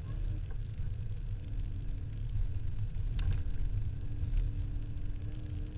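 SVT Cobra Mustang's V8 running at steady speed, heard from inside the cabin as a deep continuous rumble with a steady engine drone, driving across a dry lake bed. A single brief click about three seconds in.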